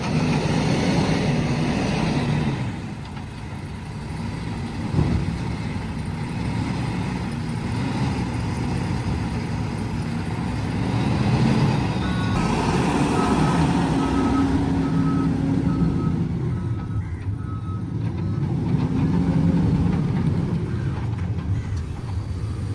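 Diesel engine of a heavy earth-moving machine working, its revs rising and falling several times under load. A reversing alarm beeps steadily for about five seconds past the middle.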